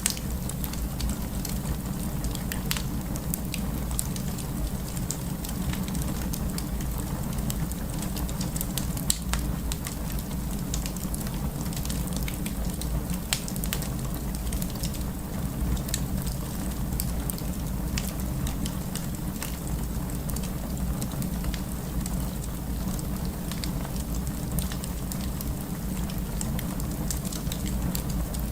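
Wood fire burning with a steady low rumble and many irregular sharp crackles and pops, one pop louder than the rest a little after nine seconds in.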